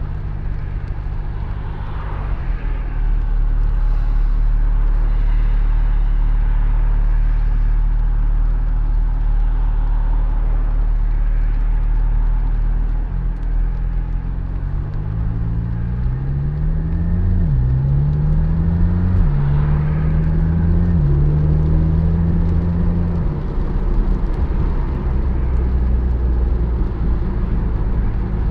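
Porsche 718 Spyder's 4.0-litre flat-six driving along. About halfway through it revs up through the gears, rising in pitch with quick drops at each upshift. It then holds a steady note and falls back to a low drone near the end, over steady road rumble.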